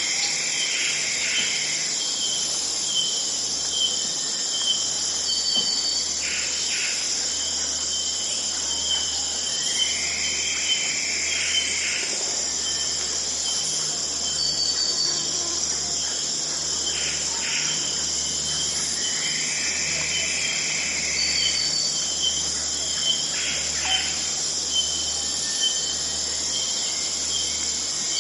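Steady high-pitched chorus of crickets and other insects in a forest, with a bird singing a short phrase, a rising swoop and a few quick notes, every four to five seconds.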